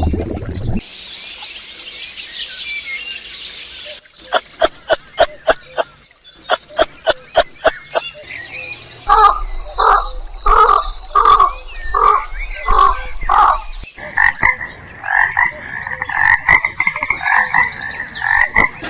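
A run of animal calls. First a high hiss for about three seconds, then sharp clicks at about four a second, then slower pulsed calls at about one and a half a second, and near the end a fast rattling call.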